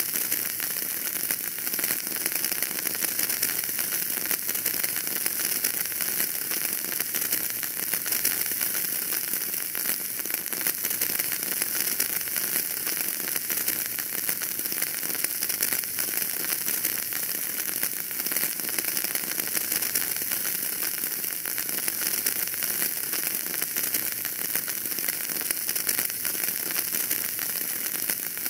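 Fire in a fireplace crackling: a steady hiss dotted with many small, closely spaced pops.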